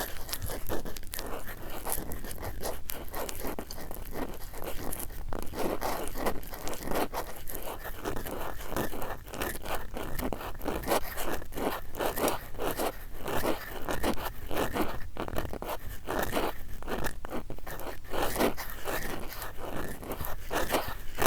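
Cotton swabs rubbed and scraped close against a microphone in quick, repeated strokes, a soft crunching scratch.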